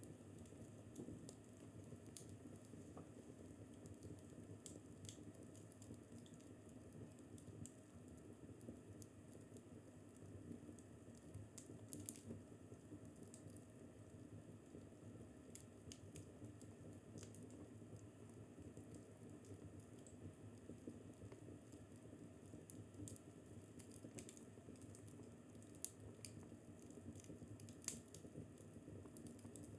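Wood fire crackling softly in a fireplace: a low steady rumble of flames with scattered small pops and snaps, a few louder ones about twelve seconds in and twice near the end.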